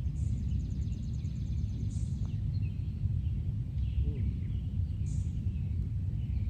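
Birds chirping outdoors: a quick trill of repeated high notes in the first two seconds, then short high chirps about two and five seconds in, over a steady low rumble.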